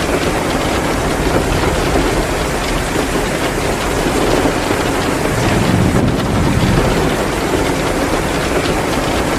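Heavy rain pouring steadily in a dense, even hiss, with a wood fire crackling in a fireplace mixed in. A low rumble swells briefly about six seconds in.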